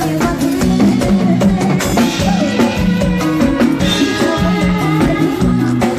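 Live Thai stage band playing, with a drum kit keeping a steady beat under a bass line and sustained melody notes.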